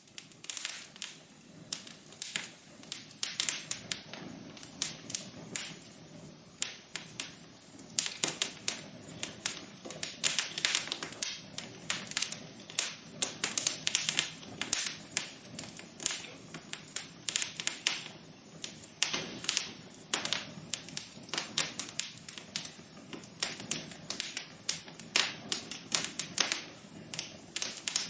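Wood fire crackling in a fireplace: dense, irregular sharp pops and snaps over a steady low hiss of burning.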